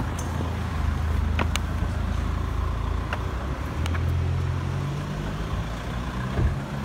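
Taxi's engine running, a steady low hum that shifts in pitch about four seconds in, with a few sharp clicks and knocks over it.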